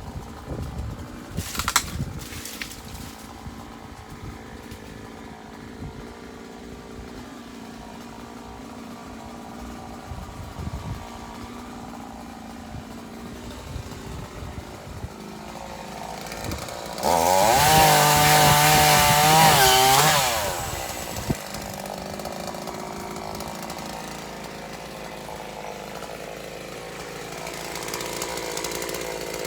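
Two-stroke chainsaw running at a low level, then revved hard for about three seconds a little past the middle, its pitch wavering as it works, before dropping back.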